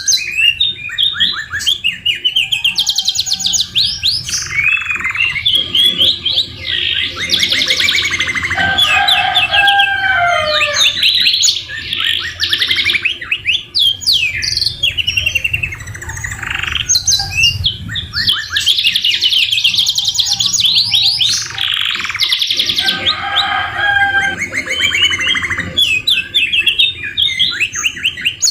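Domestic canaries singing nonstop in fast rolling trills and chirps, their song mixed with phrases copied from the white-rumped shama.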